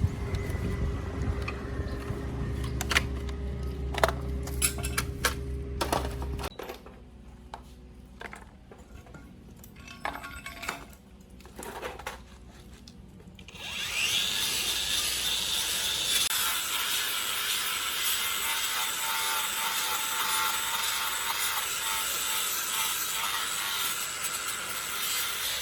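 Workshop tool work on a motorcycle: a low steady hum with scattered metallic clicks, then a quieter stretch of separate clicks and knocks. From about halfway through comes a steady rasping, like sanding or scraping.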